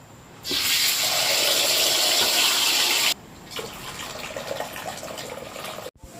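Kitchen tap running hard into a sink, starting about half a second in and cutting off abruptly about three seconds in. It is followed by quieter handling noise with a few light knocks.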